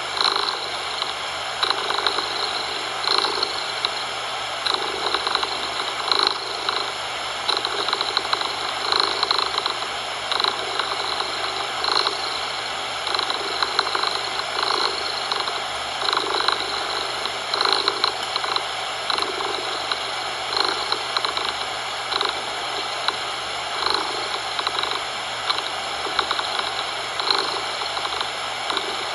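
Domestic cat purring in a steady rhythm, swelling about every second and a half with each breath, over a constant background hiss.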